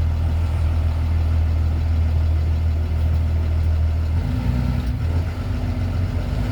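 Heavy truck's diesel engine droning steadily under road noise, heard from inside the cab. The engine note shifts about four seconds in.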